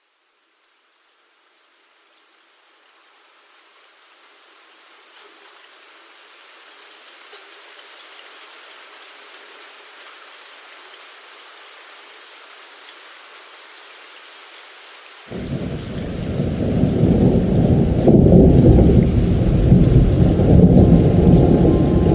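Rain hiss fading in from silence and holding steady. About fifteen seconds in, a loud, deep rumble of thunder breaks in suddenly and keeps rolling over the rain.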